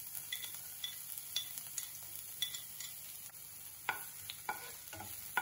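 Chopped green chillies sizzling in hot oil in a non-stick frying pan, with frequent small pops, while a wooden spatula stirs them with a few louder scraping strokes about four seconds in.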